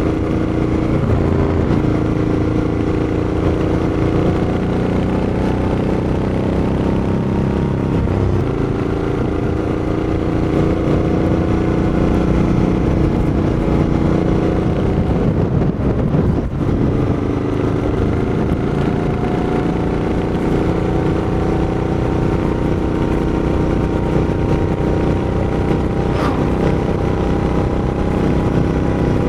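Royal Enfield Interceptor 650's parallel-twin engine and exhaust running steadily, its pitch drifting slowly up and down, with a brief dip in the sound a little past halfway.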